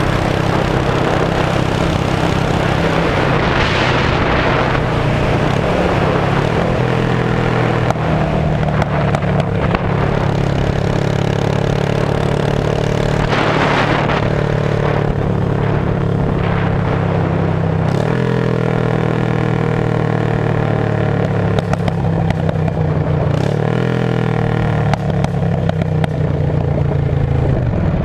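Air-cooled V-twin of a 2002 Yamaha V-Star 650 running loud through straight pipes, holding a steady note. The pitch dips and comes back up about three-quarters of the way through.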